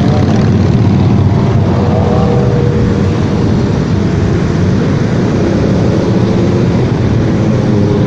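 Motorcycle running at road speed, with steady, heavy wind noise on the microphone.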